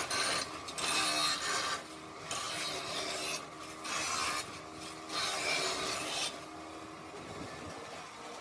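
A rough iron casting being abraded in repeated strokes of about a second each, a harsh rasping scrape. The strokes stop about six seconds in, leaving a quieter background.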